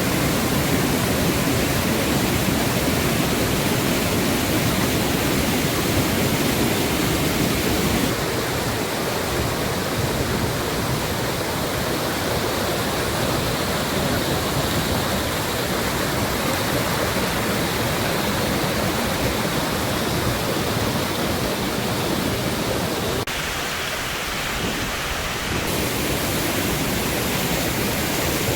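A waterfall: a steady, loud rush of falling water. Its tone changes abruptly about eight seconds in and again for a few seconds near the end.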